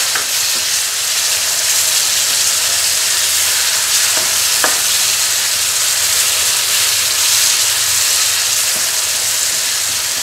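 Onion-tomato masala frying in a nonstick pan: a steady sizzle, with the spatula scraping the pan briefly a few times as the freshly added chopped tomatoes are stirred in.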